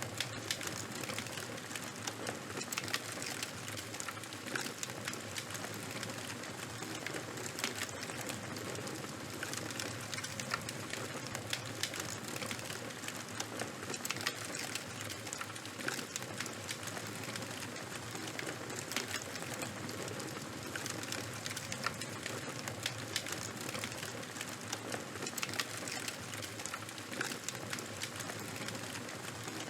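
Charcoal and wood fire burning steadily, with a constant soft hiss and many small, sharp crackles and pops scattered throughout.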